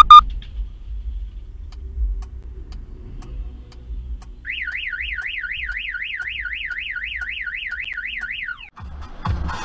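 A short loud beep at the very start, then a low rumble. About four and a half seconds in, a car alarm starts warbling up and down about four times a second, runs for about four seconds and stops, and music comes in near the end.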